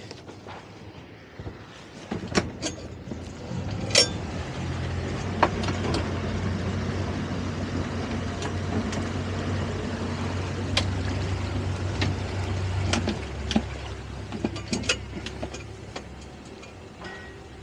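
Boat engine running with a steady low hum that comes up a few seconds in and eases off near the end, with scattered knocks and clicks throughout.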